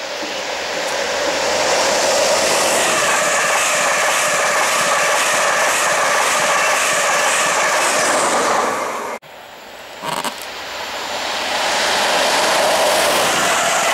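LNER InterCity 225 electric express trains with Mark 4 coaches passing at speed: a loud, steady rush of wheels on rail with a humming undertone. The sound cuts off abruptly about nine seconds in, then builds again as a second train approaches and passes.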